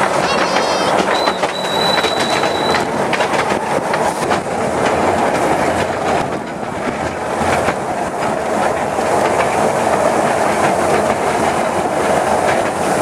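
Riding in a 15-inch narrow-gauge train carriage: a steady rumble of wheels on track, with continual fine clicking and rattling. About a second in, a thin high squeal is held for a little under two seconds, then stops.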